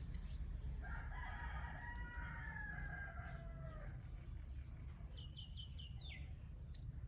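A rooster crowing once, a long call of about three seconds that falls in pitch at the end, followed about a second later by a small bird giving a quick run of about five short high notes and one longer falling note. A steady low rumble runs underneath.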